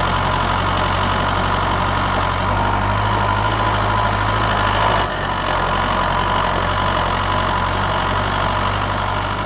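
Vehicle engine idling steadily, its low hum shifting about five seconds in.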